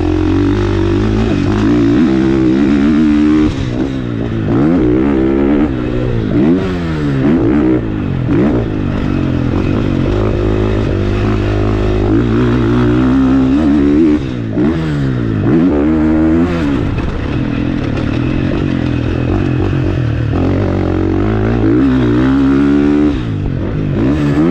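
A 450cc single-cylinder four-stroke motocross bike ridden hard around a track, its engine revving up and dropping off again and again as the rider accelerates and rolls off for corners.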